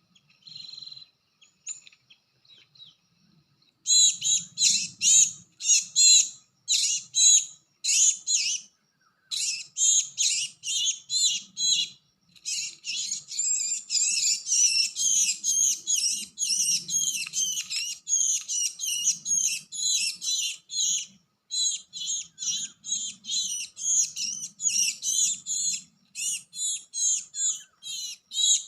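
Gelatik batu (cinereous tit) calls: after a few quiet seconds, fast runs of short, high, sharp notes, about two or three a second, growing into dense chattering in the middle and continuing to the end.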